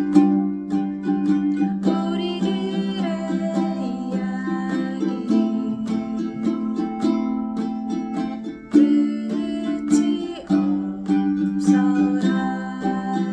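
Ukulele picked in arpeggios, playing a slow tune in waltz time, with note after note plucked and ringing.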